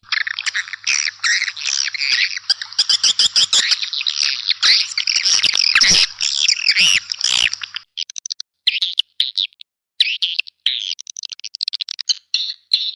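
Swiftlets twittering: a dense, continuous chatter of rapid high chirps for about eight seconds, then a brief pause and short, separate bursts of chirping. A faint low hum runs under the dense part.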